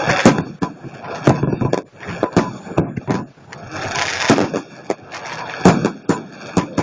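Fireworks display: a run of sharp bangs from bursting shells at irregular intervals, several a second at times, over a steady noisy hiss.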